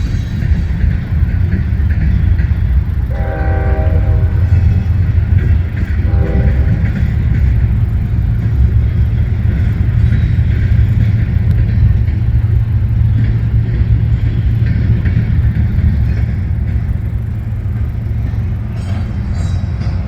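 Train passing with a steady low rumble. Its locomotive horn sounds twice: a longer blast about three seconds in, then a short one about six seconds in.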